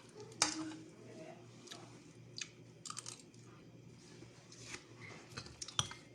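A person chewing and biting fish close to the microphone: scattered crunches and wet mouth clicks and smacks at irregular intervals.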